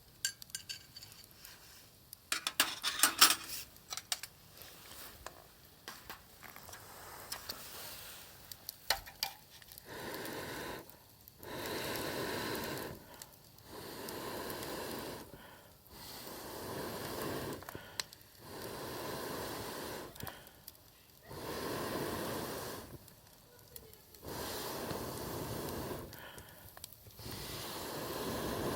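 A person blowing on a small campfire in a fire pit in long, steady breaths, about one every two to three seconds, to get it burning. Before that there is some clattering and a few clicks.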